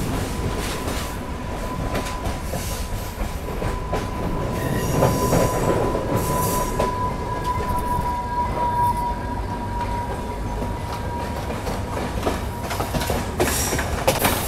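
Passenger train running, heard from an open carriage doorway: steady rumble and rattle of the wheels on the rails, with a long, steady, high wheel squeal on the curve that fades out about eleven seconds in.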